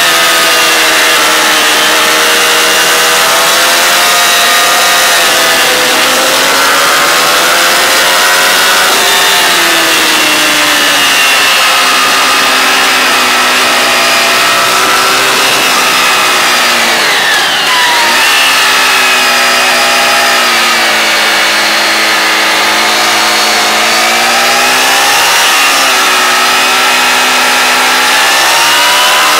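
High-revving sport motorcycle engine heard from onboard, its pitch climbing and falling again and again as it accelerates and shifts through the bends, over a steady rush of wind. About halfway through the pitch sweeps quickly downward before climbing again.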